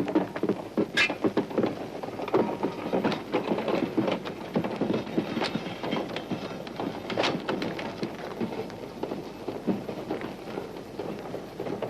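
Continuous irregular clattering and clanking of railway freight wagons being moved.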